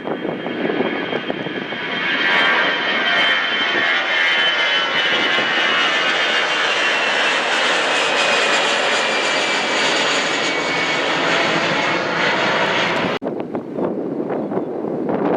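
Jet airliner's engines passing loud, building over the first couple of seconds, with a high whine slowly falling in pitch. The sound cuts off abruptly about thirteen seconds in, leaving quieter wind noise on the microphone.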